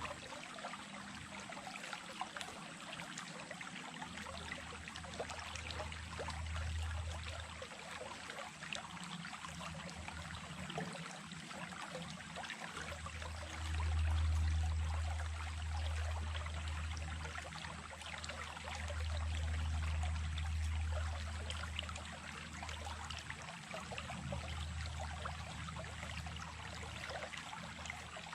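Running water of a small stream, a steady trickling and splashing, with a low rumble that swells twice, about halfway through and again a little later.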